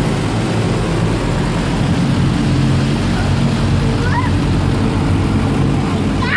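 Automatic car wash machinery running, heard from inside the car: a loud, steady din of spraying and motor hum.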